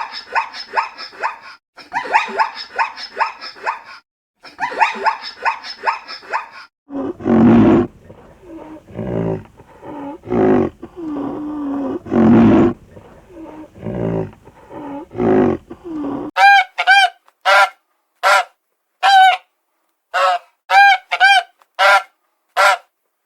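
Farm animals calling: a run of quick, rapidly repeated calls, then lower, longer calls for about nine seconds, then a string of short, clear honks, one about every half second.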